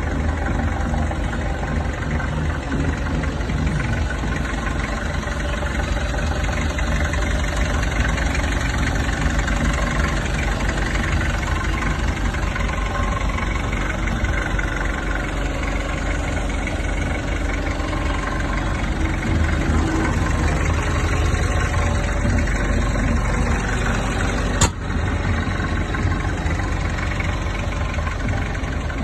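Isuzu C240 four-cylinder diesel engine of a 2.5-tonne forklift idling steadily, with one sharp click near the end.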